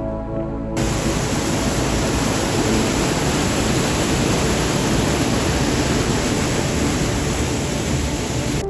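Steady, loud rush of river water pouring through a rocky gorge, starting abruptly just under a second in.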